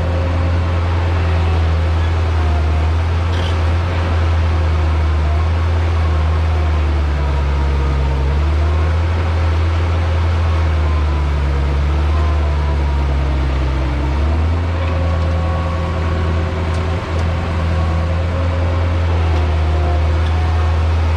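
Heavy diesel earthmoving machine running steadily, its low engine drone rising and falling a little as it works.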